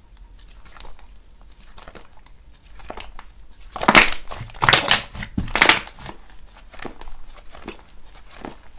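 Slime being squeezed and pressed by hand: soft scattered crackling, then three louder bursts of crackling about four to six seconds in.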